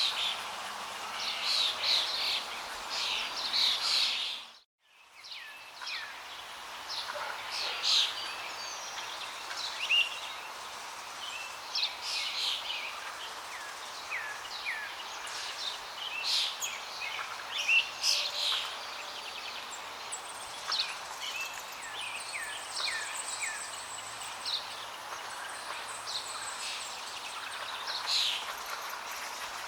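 Many small birds chirping and trilling over the steady hiss of flowing water. About five seconds in, the whole sound drops out abruptly and fades back in within a second or so.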